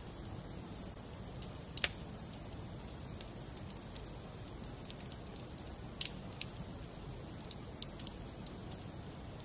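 Wood fire in a fireplace crackling: scattered sharp pops and snaps over a steady low rush, the loudest pop coming just under two seconds in.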